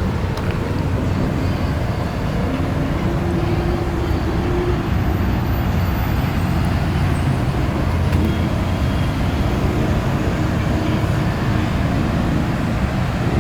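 Steady low engine rumble, with a faint hum that comes and goes.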